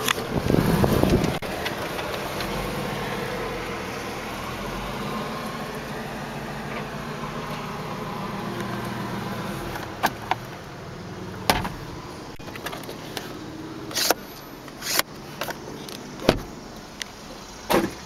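Steady hum of the Kia Forte Koup's idling engine heard in the cabin. From about halfway through come several sharp plastic clicks and knocks as the glovebox latch is worked.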